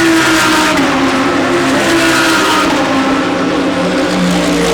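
GT3 race cars passing at speed, several engine notes overlapping, with some of the tones falling in pitch as they go by.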